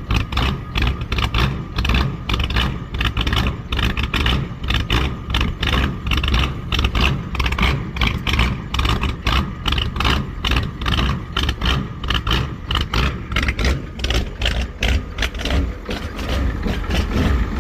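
Ford 6.9 L IDI diesel V8 running just after a cold start, with a rapid, loud, evenly repeating diesel knock over a low rumble.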